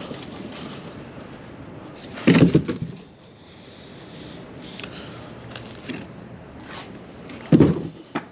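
Packaging being handled and pulled apart: scraping and crackling, with two heavy thumps, one about two seconds in and one near the end.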